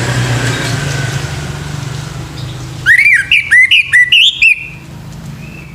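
Male orange-headed thrush singing: a quick run of about seven loud whistled notes, each rising then falling, starting about three seconds in, over a low steady hum.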